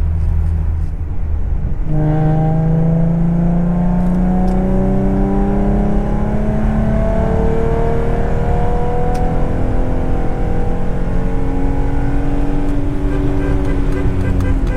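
2011 Ford Mustang's 3.7-litre V6 engine and road drone heard from inside the cabin at highway speed. About two seconds in, the engine note strengthens and climbs slowly in pitch as the car accelerates in top gear.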